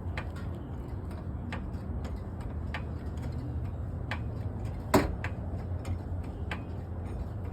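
Scattered clicks and knocks of tire-shop work on a van wheel, with one sharper knock about five seconds in, over a steady low hum.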